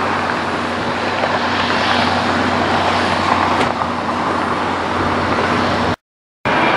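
Steady, loud roar of engine and traffic noise, broken by a sudden half-second of silence near the end.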